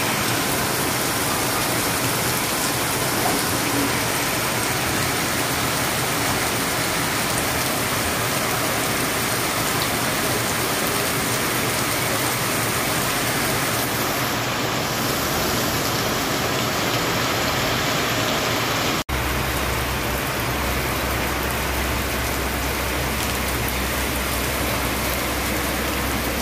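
Heavy rain falling steadily, a dense even hiss. The sound drops out for an instant about two-thirds of the way through, and a low steady rumble sits under the rain after that.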